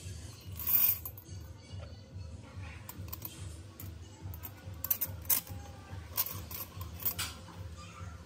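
Scattered sharp metallic clicks and taps of small tool parts being handled, over steady background music with a low beat.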